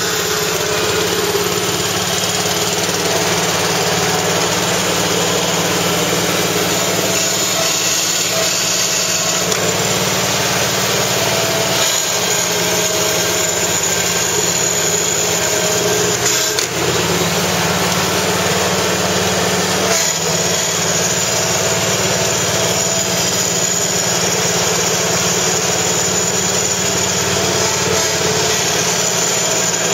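Deutz-Allis tractor engine idling steadily after a cold start, following a month of sitting unused, with a few brief changes in its note.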